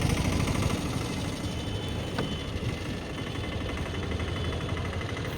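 Motor vehicle engines running in road traffic, a steady rumble.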